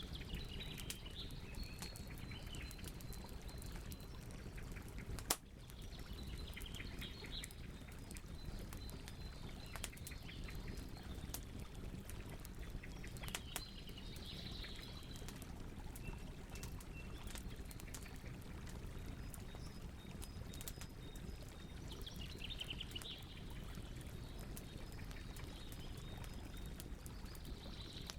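Campfire crackling, with a steady low rush from the flames and scattered sharp pops, one much louder about five seconds in. A high thin cricket trill and short bird chirps come and go over it.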